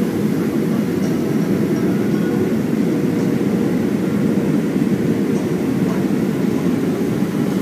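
Steady cabin noise inside a Boeing 737-400 in flight on approach: the even, low rush of airflow and its CFM56-3 engines, with a faint steady hum.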